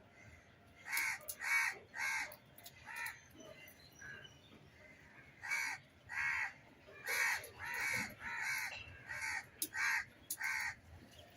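Crows cawing: a run of short, harsh caws, about four in quick succession, a pause, then about eight more.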